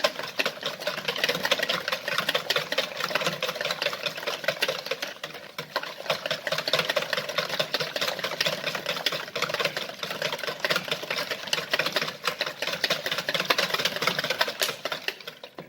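Electric mixer running steadily through a liquid cake batter, a whirring hum with a rapid clatter; it switches off just before the end.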